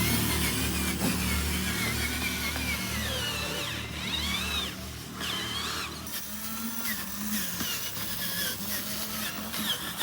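Small electric motors and gearboxes of radio-controlled construction models running with a low hum and a wavering whine. The low hum drops off about six seconds in, and a lighter whine carries on.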